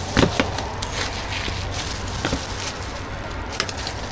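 Working noise at a street food stall: a steady background hiss and low hum, broken by a few short knocks and clicks.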